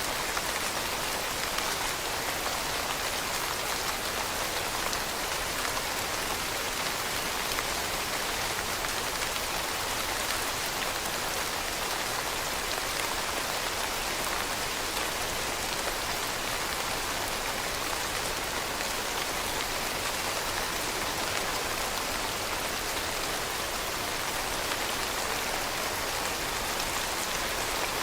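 Steady rain falling on a surface: a dense, even hiss of many drops with no thunder or other events.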